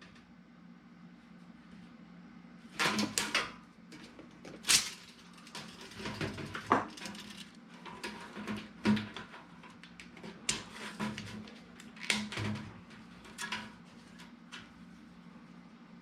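Irregular knocks, clicks and brief rustles of hands working on a duct pipe, with a measuring tape and marker, while marking a cut line around it, over a faint steady low hum.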